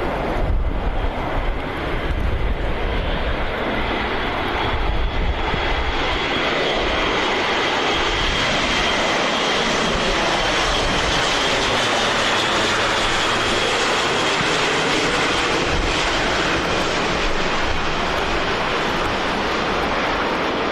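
Airbus A400M's four TP400 turboprop engines running steadily, a continuous roar with a high whine over it. Wind buffets the microphone during the first few seconds.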